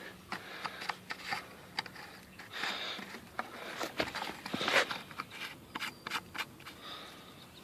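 Handling noises at a lawn mower's gas tank and cap: irregular rubbing and scraping with short ticks, as the cap is worked onto the tank.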